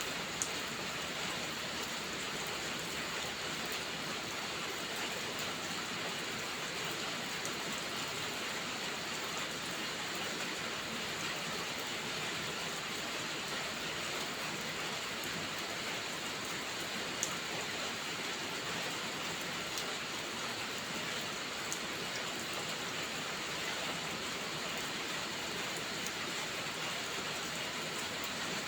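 Steady rainfall, an even hiss of rain on a surface with no letup, and a few isolated sharp ticks standing out.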